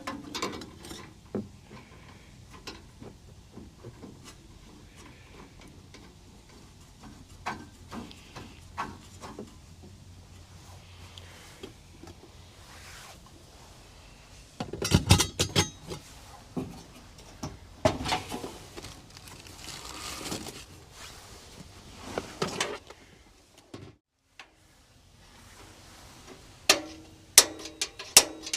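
Camp cookware and gear being handled: scattered clinks, knocks and rattles of pots and utensils, with a busier stretch about halfway through and a quick run of sharp clicks near the end.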